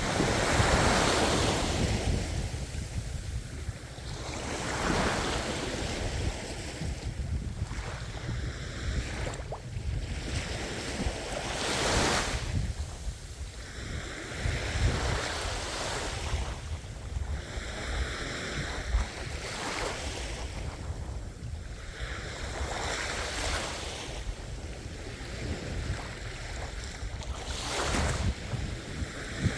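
Ocean surf: waves washing in, swelling and fading every three to four seconds, with wind rumbling on the microphone.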